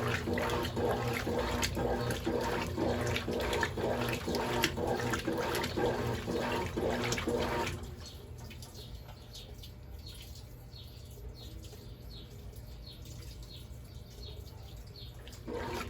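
Brastemp Ative 11 kg top-loading washing machine agitating laundry in water: a steady motor hum with water sloshing, which stops abruptly about eight seconds in, leaving water dripping and trickling, then starts again near the end.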